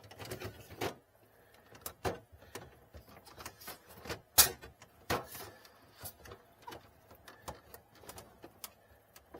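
Irregular plastic clicks and knocks of a replacement water filter cartridge being fitted into a Samsung French door refrigerator's filter housing, with one sharp click about four and a half seconds in.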